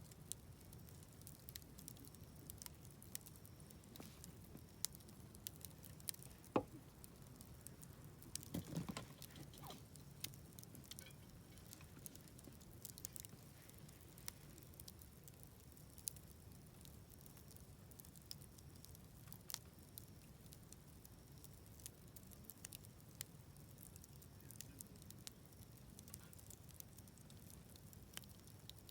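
Wood fire crackling in a fire pit: scattered faint pops and snaps, with a denser run of crackles about nine seconds in, over a low steady rumble.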